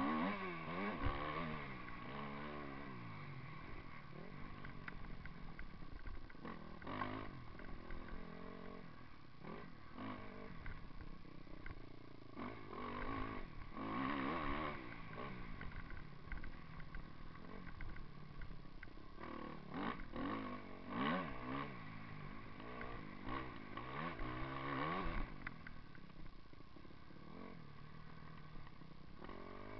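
Motocross bike engine revving up and falling back over and over, its pitch rising and dropping repeatedly.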